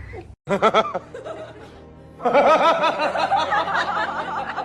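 A person laughing in a quick run of repeated syllables, with music behind.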